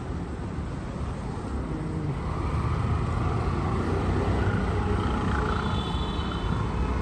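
A motor's hum over a dense low rumble, growing louder about two seconds in, with faint steady whining tones in the second half.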